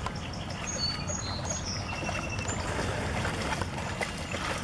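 Several short, high bird chirps in the first couple of seconds, over a steady low background rumble.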